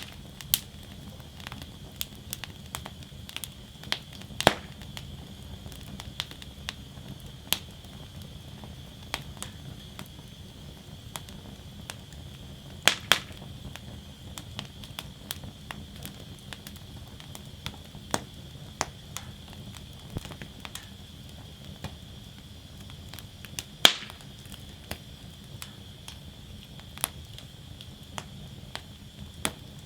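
Wood fire burning in a steel fire basket, crackling with irregular pops and a few louder, sharper snaps, over a steady low rumble and a faint steady hiss.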